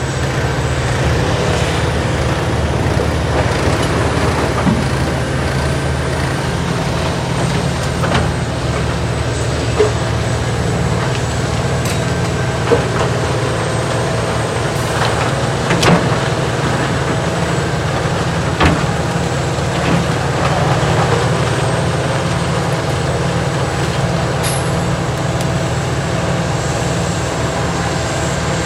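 Heavy diesel machinery, a large tracked horizontal grinder with its feeding excavator, running steadily under load, with sharp knocks and cracks from the wood about half a dozen times.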